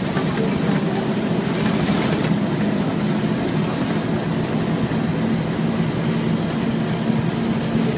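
Scania N230UD double-decker bus's Euro V diesel engine running with a steady drone over road and mechanical noise.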